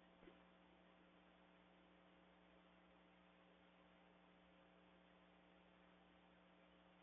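Near silence with a faint, steady electrical hum, and one faint click about a third of a second in.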